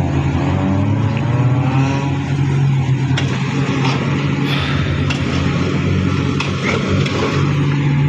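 Heavy diesel engine running steadily with a low hum, its pitch shifting a little in the first couple of seconds.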